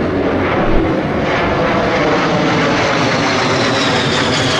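Aircraft flying past with loud, steady engine noise and a high whine that slides down in pitch over the last second or so as it passes.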